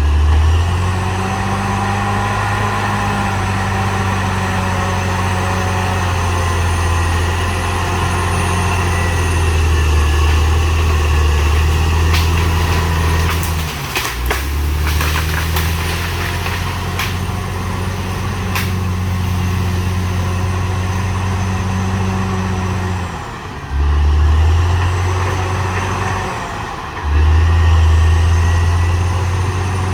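Caterpillar D6R XL bulldozer's diesel engine running steadily at work. The low drone dips briefly three times, and a burst of sharp clanks comes about halfway through.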